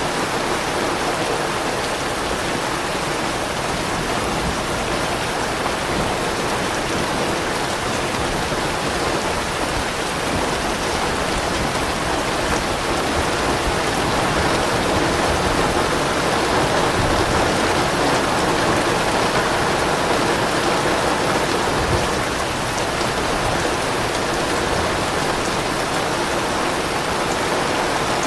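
Steady, heavy rain falling on surfaces, a dense even patter that swells slightly around the middle.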